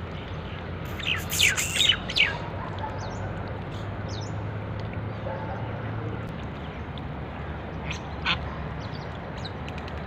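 Birds calling: a quick run of several short calls about a second in, then a single call about eight seconds in, over steady background noise.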